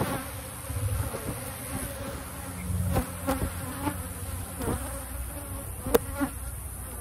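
Honeybees buzzing steadily around an open hive during a frame-by-frame inspection, with a few sharp clicks and knocks, the sharpest about six seconds in.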